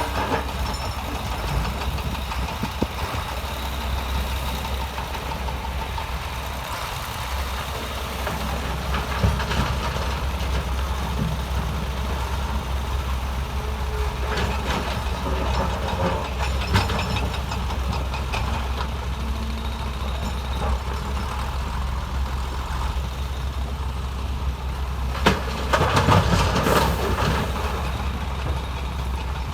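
Heavy diesel construction machinery running steadily with a low rumble, with scattered knocks of rock and metal, and a louder cluster of knocks and scraping near the end.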